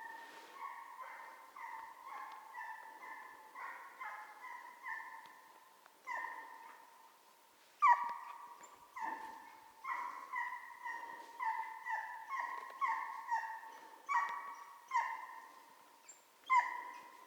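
Hunting dog baying on the trail of a hare, a steady run of yelps about one or two a second, some louder than others.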